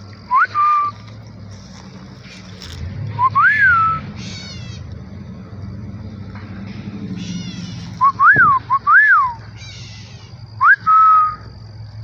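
A person whistles five short, loud, pure notes, each sliding up and then holding or falling. A bird answers three times with fainter, higher quick trills of falling notes, in a whistled back-and-forth.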